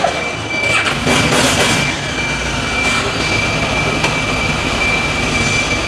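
Motorcycle factory floor noise: a steady machinery roar with a constant high whine, and a short hissing burst about a second in.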